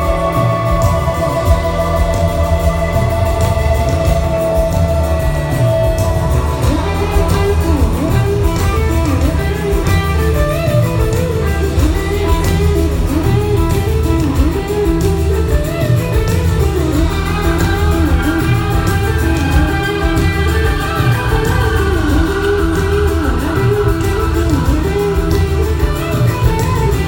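Live rock band playing an instrumental stretch, electric guitar leading over heavy bass and drums with no singing. From about seven seconds in, the guitar line wavers and bends in pitch.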